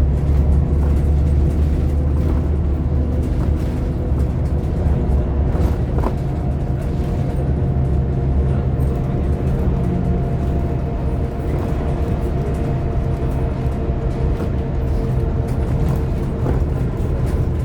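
Scania K230UB OmniLink bus's five-cylinder diesel engine heard from on board while driving: a steady low drone, with a faint steady whine over it.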